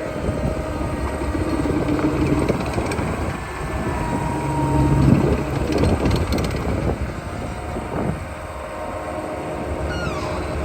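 Caterpillar skid steer's diesel engine running, its pitch rising and falling around the middle as the machine is worked, with a falling whine near the end.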